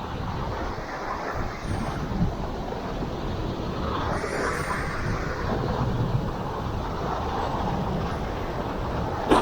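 Strong wind buffeting the camera microphone over choppy sea water, a steady rushing rumble that swells about halfway through. A single sharp knock near the end.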